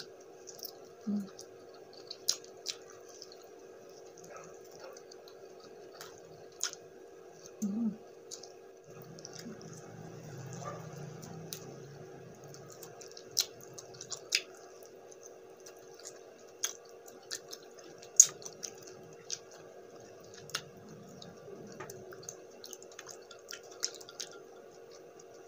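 Close-up eating sounds: wet mouth clicks, lip smacks and chewing as saucy buffalo wings and rice are eaten by hand, scattered irregularly throughout, over a steady low hum.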